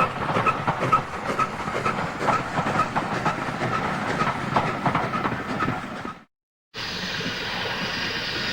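Railway carriages' wheels clattering over rail joints in an even rhythm of about two or three clicks a second. The sound cuts off about six seconds in, and a steady rushing noise follows.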